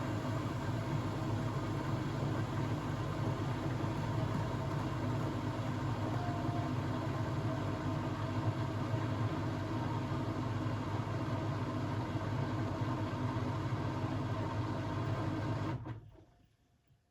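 Blomberg WAF 7442 SL washing machine running with a steady low hum, which dies away about 16 seconds in, leaving near silence.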